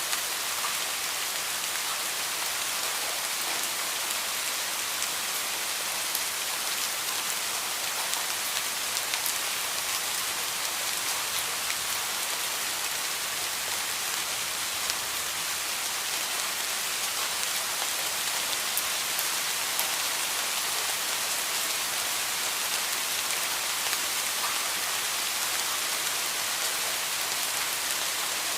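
Steady heavy rain falling, an even hiss with the fine patter of drops hitting a surface.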